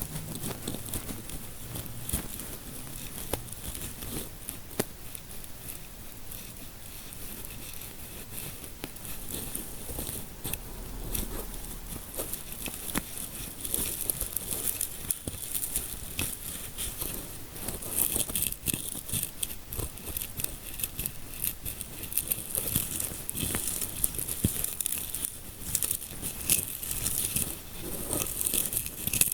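Close-miked ASMR scalp massage sounds: fingers rubbing and scratching, making a dense crackle of small clicks and rustles. It grows brighter and busier about halfway through.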